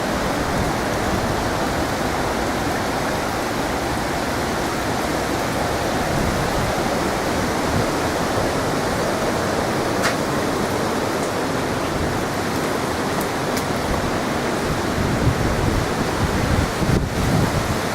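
Hurricane wind and rain making a steady rushing noise, with gusts buffeting the microphone near the end.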